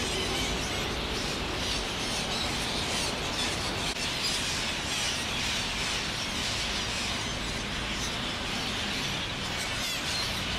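A large flock of red-breasted parakeets calling together: many harsh calls overlapping without a break.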